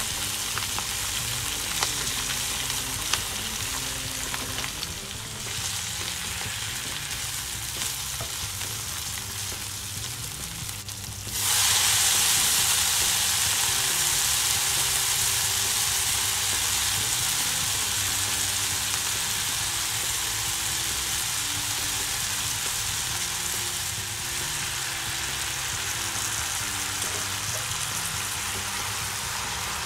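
Bacon and spinach sizzling in a hot frying pan, a steady crackling hiss. About eleven seconds in, the sizzle turns suddenly louder and hissier and stays that way.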